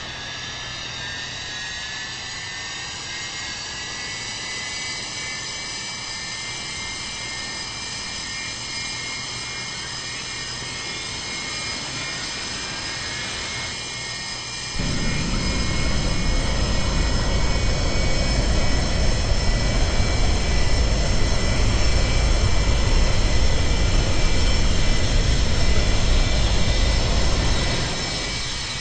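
Boeing 737-200's Pratt & Whitney JT8D turbofan engines running, a whine rising slowly in pitch as they spool up. About halfway through, a loud deep rumble suddenly comes in and holds, easing off near the end.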